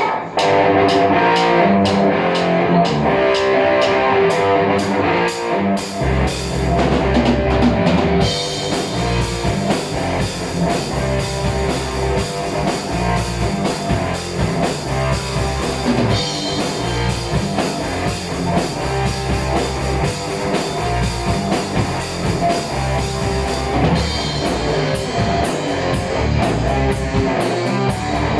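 Heavy metal band playing live with electric guitar and drum kit, no singing. At first the guitar plays over steady, evenly spaced cymbal strokes. About six seconds in, bass and kick drum come in, and a couple of seconds later the full band plays with a wash of cymbals.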